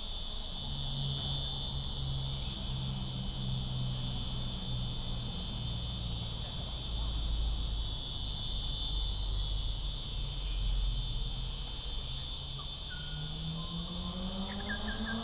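Steady chorus of insects, a continuous high-pitched shrill buzz. Near the end a low hum comes in and rises in pitch.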